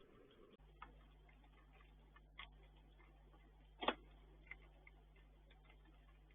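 Near silence: a few faint, sharp taps scattered irregularly, the loudest about four seconds in, over a steady low electrical hum that sets in about half a second in.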